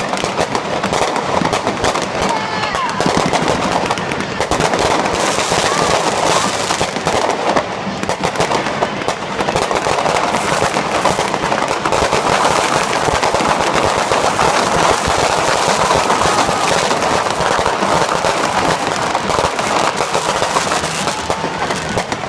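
Fireworks going off in a dense, continuous barrage of bangs and crackling, with hardly a gap between bursts.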